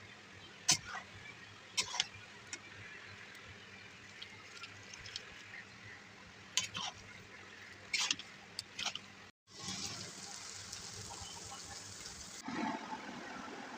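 Cooking sounds: about half a dozen sharp clinks and knocks over a faint background, then, after an abrupt cut, a steady hiss for about three seconds.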